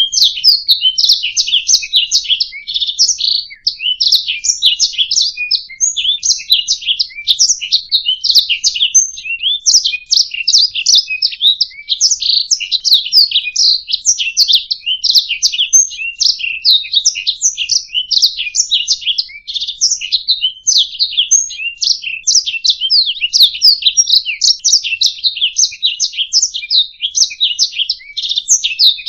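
Domestic canary singing continuously: a dense, fast run of high chirps and rolling trills with no pauses.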